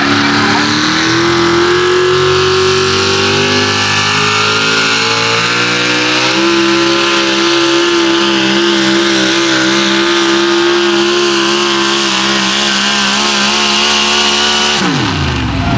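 A 6200 lb 4x4 pulling truck's engine held at full throttle under load, its pitch climbing at first and then holding high with a slight waver. About a second before the end the pitch falls off sharply as the throttle is released.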